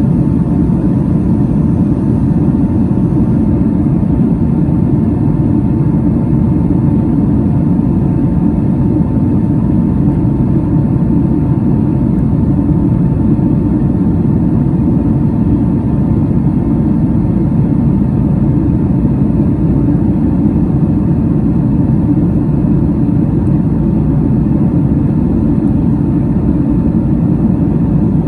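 Boeing 767 airliner cabin noise with the engines running: a steady, loud low rumble of engines and rushing air, with a faint thin steady whine above it and no change across the whole stretch.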